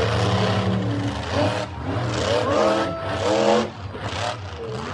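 Vehicle engines revving, the pitch climbing in rising sweeps through the middle, over a steady low engine rumble.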